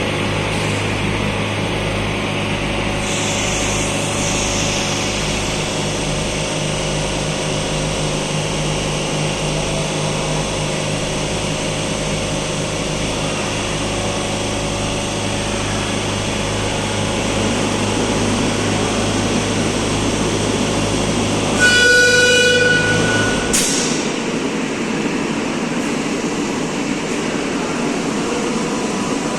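Madrid Metro Serie 5500 train's steady electrical hum and rumble. About 22 s in, a loud buzzing warning tone sounds for about a second and a half, followed by a click, after which the low hum stops.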